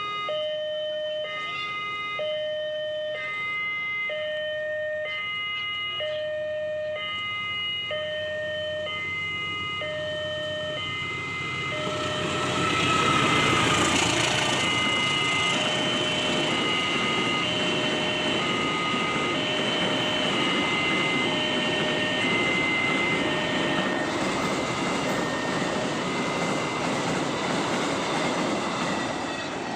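Railway level-crossing warning alarm sounding a repeating two-tone electronic chime about once a second. About twelve seconds in, a train's rumble rises and carries on over the alarm as the train passes the crossing.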